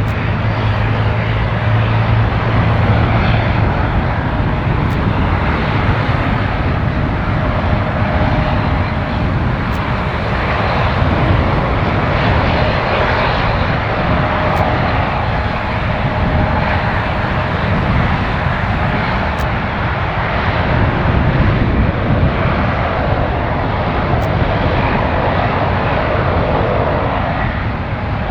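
Boeing 777-300ER's GE90 turbofan engines during its landing, a steady loud jet rush. A low hum fades out about three seconds in.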